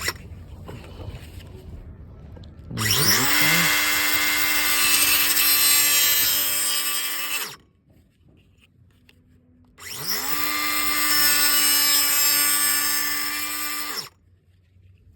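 An electric power tool run twice, about five seconds and then four seconds, each time spinning up to a steady high whine and winding down when released.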